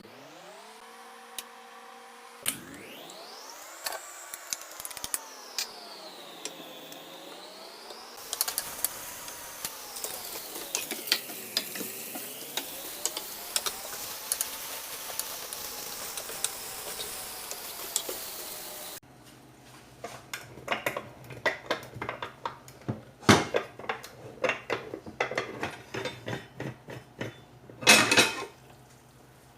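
Metal utensils clinking and scraping against pots and pans, with a slowly rising and falling tone under the clatter for the first two-thirds. About two-thirds of the way in the tone stops suddenly, leaving scattered knocks and clicks over a low steady hum, the loudest knocks near the end.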